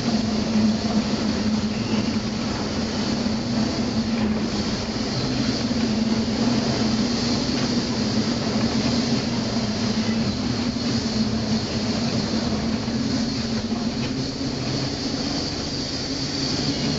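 Steady mechanical drone with a constant low hum under a high hiss, unbroken throughout.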